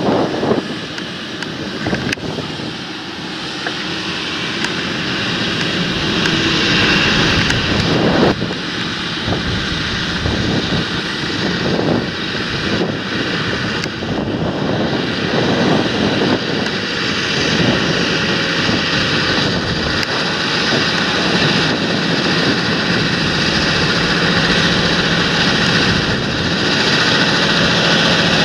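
Large farm tractor working in the field, its engine running steadily under load with a thin steady whine over it, getting louder over the first several seconds and then holding, with wind on the microphone.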